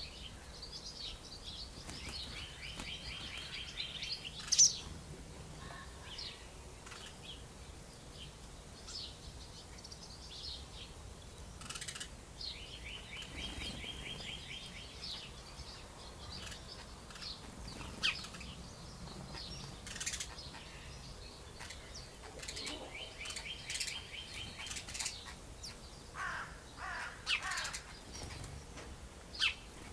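Small birds chirping and calling, with a short buzzy trill that comes back about every ten seconds. There is a sharp click about four and a half seconds in, and a few harsher, lower calls near the end.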